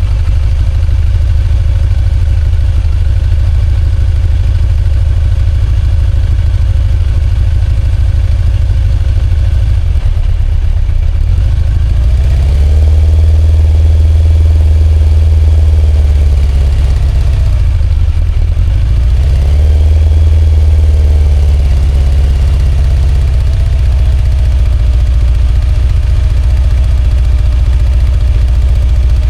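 Kawasaki ZZR1100's inline four-cylinder motorcycle engine running at idle, blipped up twice about halfway through and held at higher revs for a few seconds each time before settling back.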